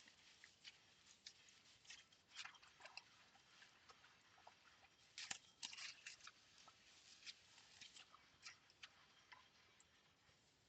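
Faint hand-washing of ceramic bowls: soft scrubbing with soap suds crackling, and scattered light clicks and taps of ceramic, busiest about halfway through.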